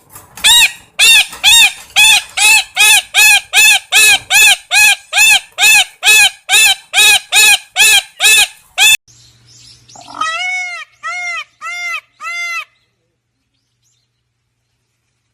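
A bird calling over and over, about two calls a second, each call rising and then falling in pitch. The series cuts off suddenly after about nine seconds. A second, lower-pitched series of five calls follows and ends abruptly.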